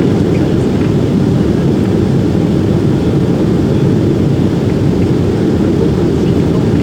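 Boeing 767-400 cabin noise: a steady, loud low rumble of engines and airflow heard from inside the passenger cabin.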